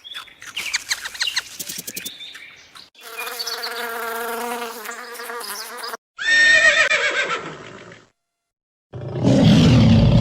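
A series of different animal calls, cut one after another: a buzzing, clicking stretch, a steady pitched call, a high call falling in pitch, then, after a second of silence, a loud rough call near the end.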